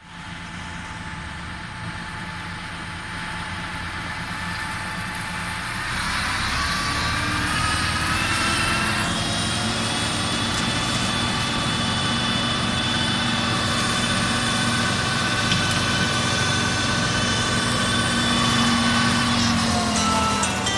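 Tractor engine and its boom-mounted flail mower running together, with a steady mechanical whine. About six seconds in it gets louder and the whine rises in pitch for a few seconds, then holds steady as the mower runs up to speed.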